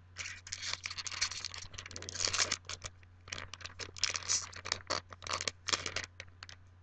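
Trading cards and booster-pack foil being handled at close range: irregular scratchy rustling and scraping for about six seconds.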